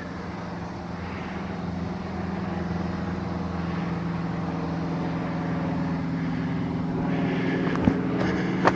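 A steady engine drone that slowly gets louder, with a couple of short clicks near the end.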